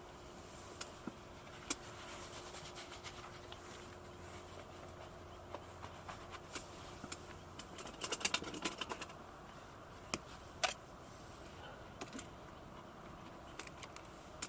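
Scattered light clicks and clatter of camping gear being handled, with a quick run of clicks about eight seconds in, over a steady background hiss.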